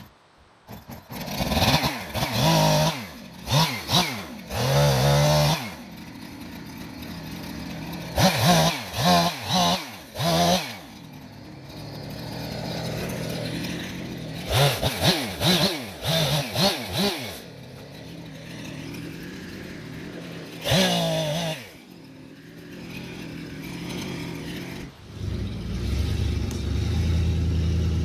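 Chainsaw revving hard in short bursts, in four clusters, dropping back to a steady lower run between them. Near the end a deeper engine sound takes over and runs steadily.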